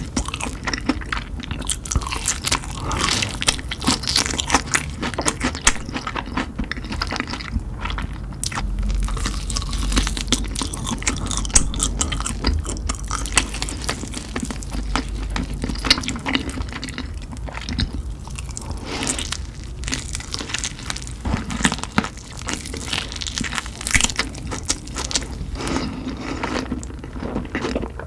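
Close-miked eating of spicy chicken: continual biting and chewing with many sharp, crisp crunches.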